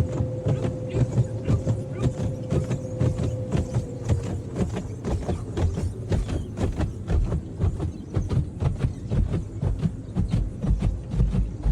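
An automatic car wash heard from inside the car's cabin: wash brushes and water beat on the body in a rapid, irregular drumming over a low rumble.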